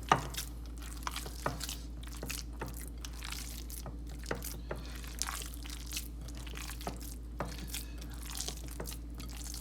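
Bare hands squishing and kneading a wet mix of ground turkey, ground chicken, egg and chopped vegetables, giving scattered soft squelches and crackles, with one sharp knock right at the start, over a steady low hum.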